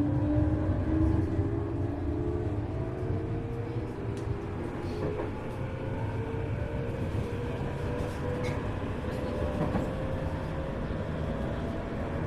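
Running sound inside a Tokyu 1000 series electric motor car: the traction motor whine climbs slowly and steadily in pitch as the train accelerates, over a steady low rumble of wheels on rail.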